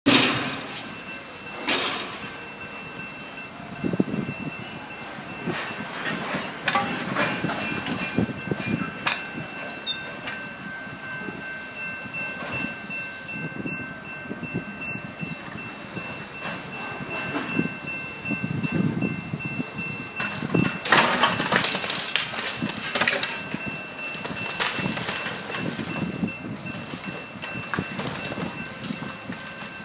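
Heavy equipment clearing demolition rubble: repeated knocks, crunches and crashes of debris over a faint steady mechanical whine.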